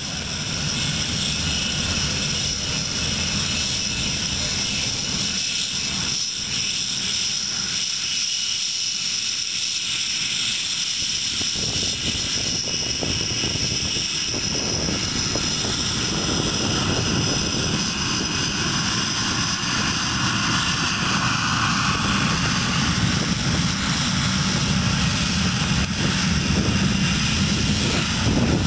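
Aircraft engines running steadily, growing a little louder in the last third.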